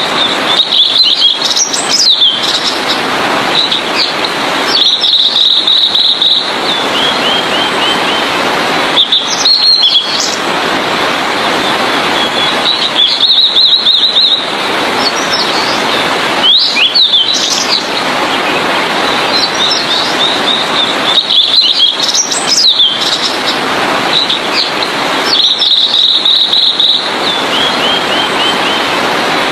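Blue-and-white flycatcher singing: short, high warbled phrases repeated every few seconds, some trailing into a quick descending series of notes, over a steady hiss-like background.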